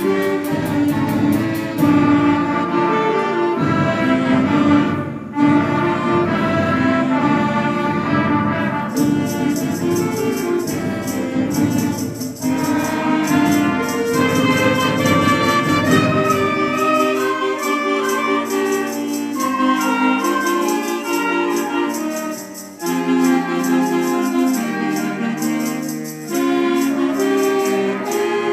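School concert band playing a piece, with many wind parts moving together. A rattling high percussion part keeps a fast, even pulse through much of it.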